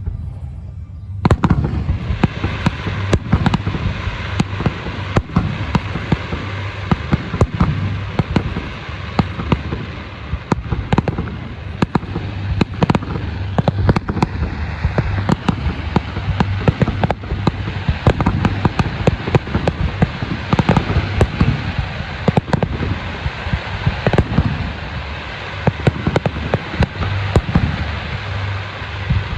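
Fireworks display: a dense, continuous barrage of shell bursts starting about a second in, with many sharp bangs each second over a steady crackle.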